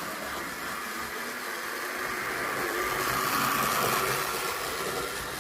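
PIKO HO-scale model locomotive running on its track: a steady whir of the small electric motor and gearing with light wheel-on-rail rattle, growing a little louder partway through.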